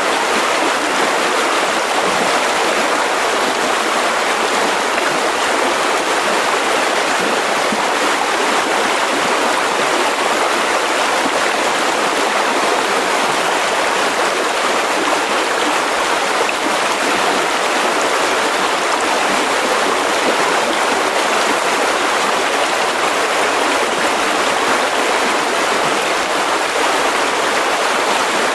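Mountain river rushing steadily over rocks, an even, continuous water noise.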